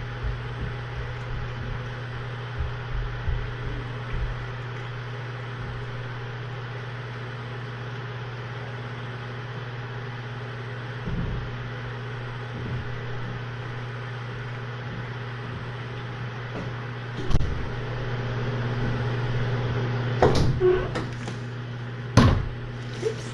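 Steady low room hum, with a few soft thumps early on and several sharp knocks and bumps in the last six seconds, like a door or cupboard being handled.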